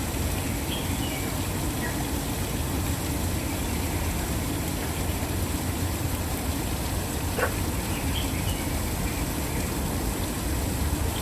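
Waterfall rushing steadily, a constant deep wash of falling water, with a few faint short bird calls over it.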